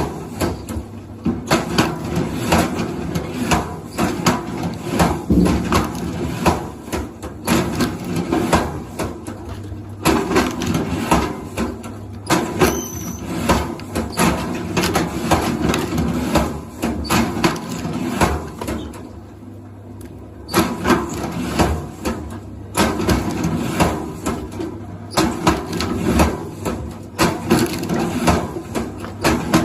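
Firewood splitting machine with a screw-type drill head driving into logs: repeated wood cracking and splintering over the machine's steady motor hum. The cracking comes in runs with short pauses, the longest about two-thirds of the way through.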